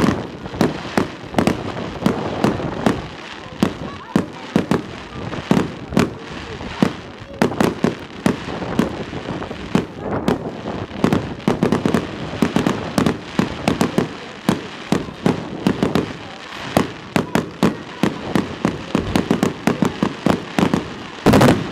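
Fireworks display: a rapid, continuous barrage of sharp bangs and crackles, several a second, with the loudest cluster near the end.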